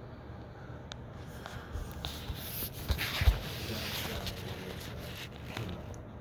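Rustling and handling noise with scattered small clicks, swelling in the middle, and a sharp low thump about three seconds in.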